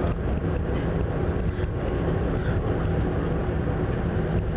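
Ferry engines droning steadily with a constant low hum, under an even rushing noise.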